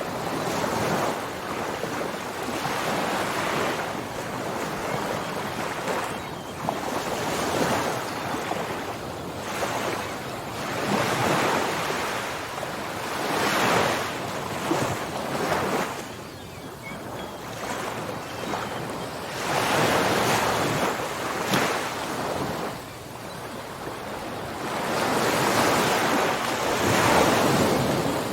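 Ocean waves breaking and washing up the shore, the surf swelling and ebbing every few seconds, with some wind on the microphone.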